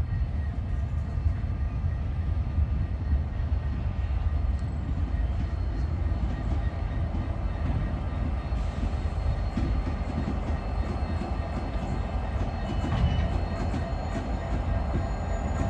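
Empty grain train rolling past, a steady low rumble with continuous wheel clatter from the wagons.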